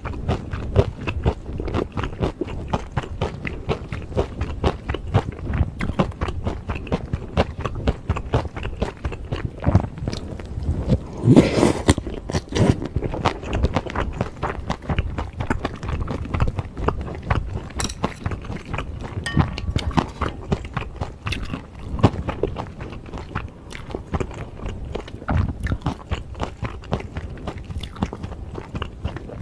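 Close-miked mouth sounds of a person chewing a mouthful of beef bulgogi with bean sprouts and glass noodles: dense, rapid, wet chewing clicks with some crunch, and one louder, longer mouth sound a little before halfway through.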